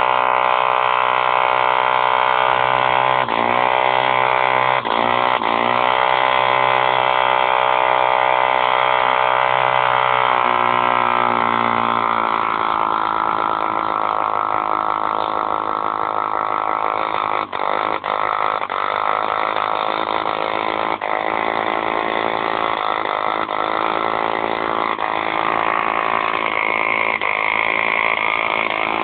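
B51 model diesel engine running steadily at high speed. A few times the note dips briefly and recovers, and about twelve seconds in it changes to a slightly different steady note.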